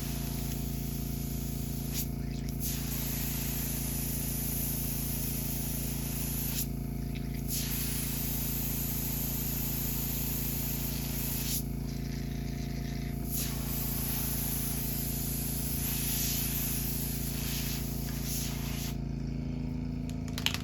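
Airbrush being cleaned, blowing air and cleaner out in long hissing sprays broken by four short pauses, over the steady hum of its air compressor. The hum stops at the very end.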